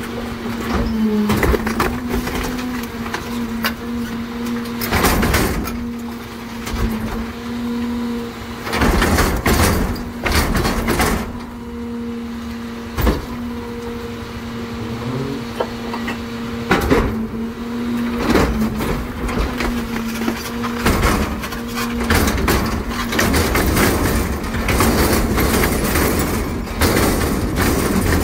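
CCC NewWay rear loader garbage truck working a load of heavy trash. A steady hum from its engine and hydraulics runs under repeated bangs, clatters and crunches of trash. The hum stops about three quarters of the way through, and a louder low rumble follows.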